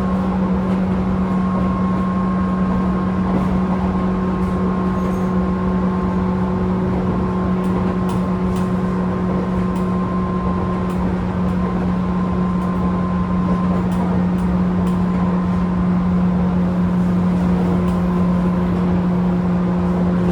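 Tobu 10000 series electric train heard inside its motor car: a steady electrical hum with one strong constant low tone and fainter higher tones over a low rumble, with a few faint clicks.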